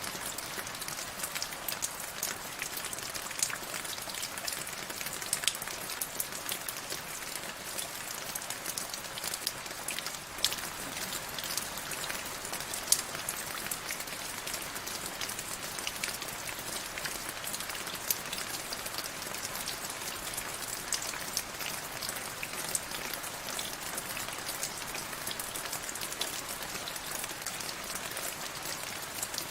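Steady rain falling on a surface, an even hiss with many sharp drop ticks scattered through it.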